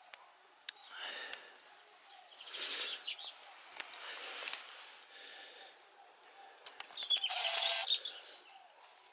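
Faint bird calls against outdoor background noise, broken by several short bursts of rustling noise, the loudest and longest lasting about half a second, some seven and a half seconds in.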